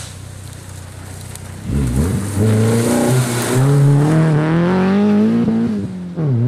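Renault Clio Sport 2.0 rally car's four-cylinder engine accelerating hard through a bend, faint at first, then loud, its pitch climbing steadily for several seconds. Near the end the pitch drops sharply at a gear change and the engine pulls on at a steady note.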